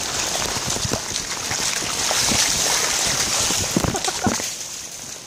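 Heavy thunderstorm rain pouring down on a flooded street: a steady hiss of rain and running water, with many close drop hits.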